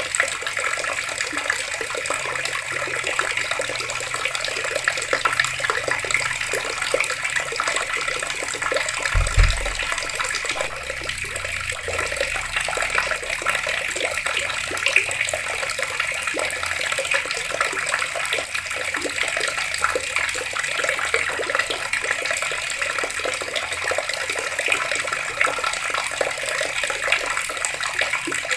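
Water taps running and splashing steadily, an even rushing of water. A single dull thump about nine seconds in.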